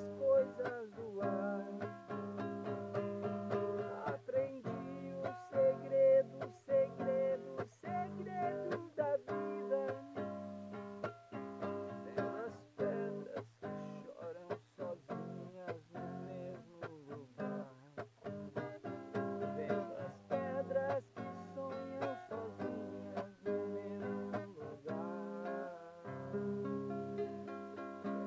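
Acoustic guitar played with a mix of strummed chords and picked notes.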